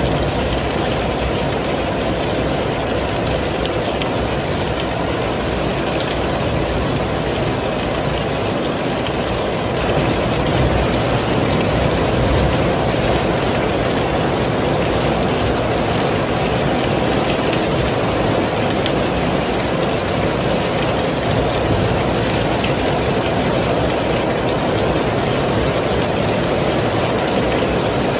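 Heavy rain falling steadily, a dense even rush that grows slightly louder about ten seconds in.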